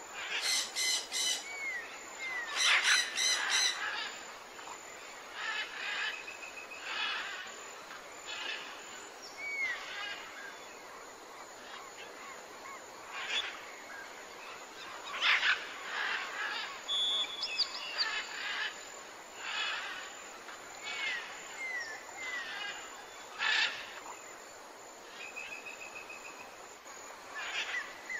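Several birds calling in woodland: harsh squawking calls in the first few seconds, then scattered chirps and short whistled notes, over a faint steady hiss.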